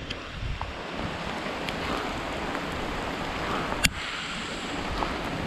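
Steady hiss of heavy rain, with wind noise on the microphone, and one sharp tap a little under four seconds in.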